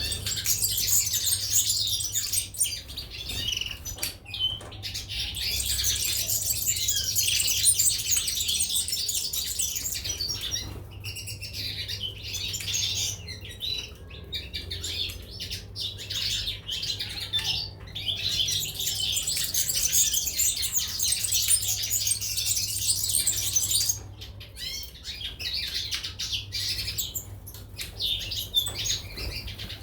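Caged European goldfinches and canaries chirping and twittering in a dense, continuous chatter that drops back briefly a few times. A faint steady low hum runs underneath.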